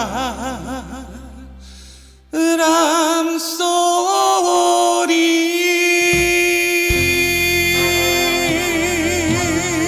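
A man singing a Korean trot ballad in a clear, high voice over band accompaniment. One phrase fades out about two seconds in, then he holds a long, loud note with vibrato.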